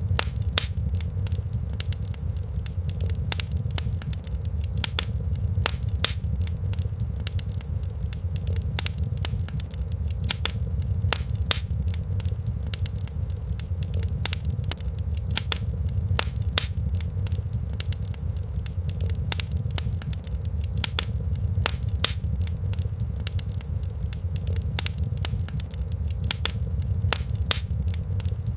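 Wood fire crackling in a fireplace: frequent, irregular sharp pops and snaps of varying loudness over a steady low rumble.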